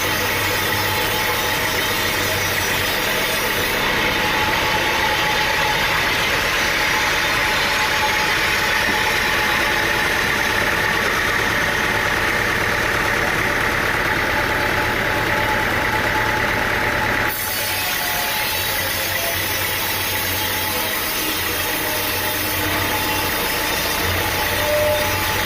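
Sawmill machinery with an engine running steadily. A high whine grows louder through the middle and cuts off abruptly about 17 seconds in, after which the engine keeps running.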